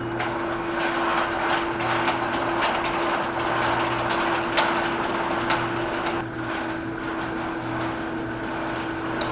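Steady electrical hum under a rushing noise, with scattered irregular knocks and clicks.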